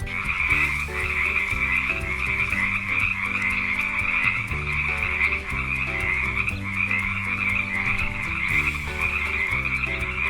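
Frogs croaking in a dense, unbroken chorus, a steady chatter of overlapping calls.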